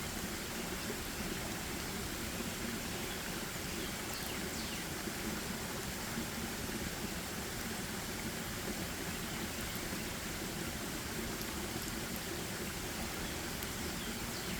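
Steady, even rushing outdoor ambience of a forest recording, with a couple of faint, short, high chirps.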